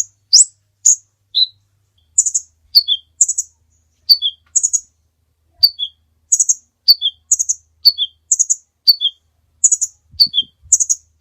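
Kolibri ninja, a small sunbird, giving sharp, high chirps over and over: short phrases, each a high note followed by one or two lower ones, about one phrase a second. A few faint low knocks come in near the end.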